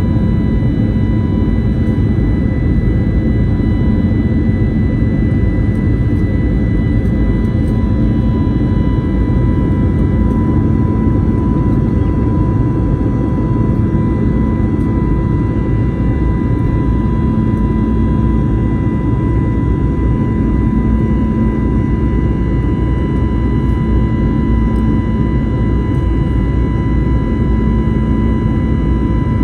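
Airbus A321neo jet engine noise heard inside the passenger cabin during takeoff climb: a loud, steady rumble with constant high whining tones from the engines.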